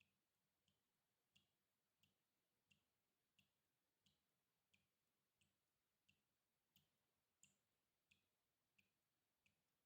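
Water dripping steadily at an even rhythm, about three drops every two seconds, each a short plink into water. Very faint.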